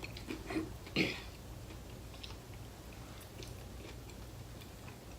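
Someone chewing chicken wings close to the microphone: a few soft wet smacks and clicks, the loudest about a second in, then faint scattered mouth ticks.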